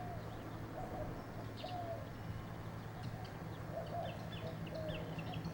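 Several birds calling and chirping, with short repeated notes at a low pitch and quicker high chirps, over a steady low hum.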